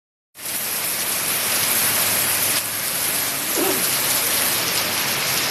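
Heavy rain pouring steadily, starting abruptly a moment in.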